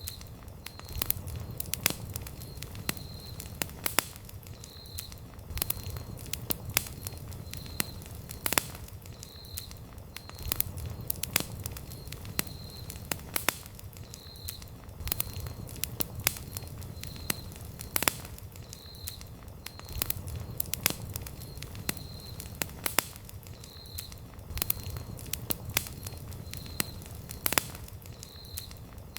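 Wood campfire burning, with frequent sharp crackles and pops at irregular intervals over a low, steady rumble of the flames.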